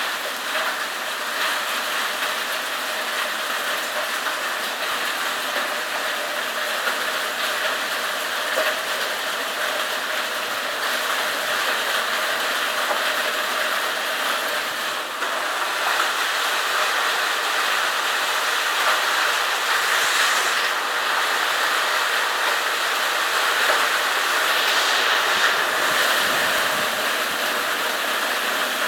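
Heavy storm downpour of rain and hail: a steady rush of pelting drops and small stones hitting surfaces. It grows a little louder about halfway through.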